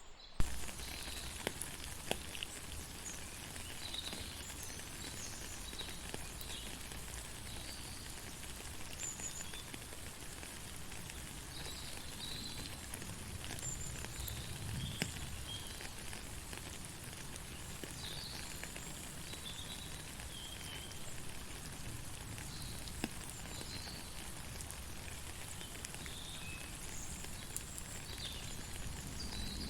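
Steady rain falling, an even hiss with scattered drops pattering, with short high chirps dotted through it. The sound drops out for a split second right at the start.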